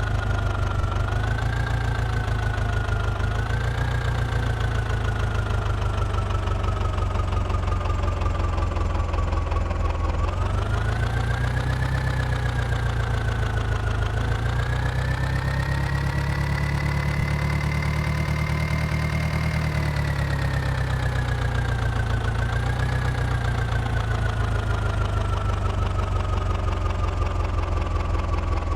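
Mahindra tractor's diesel engine running continuously, its revs rising and falling: small rises near the start, then climbing about a third of the way in, peaking around two-thirds of the way through and slowly easing back down.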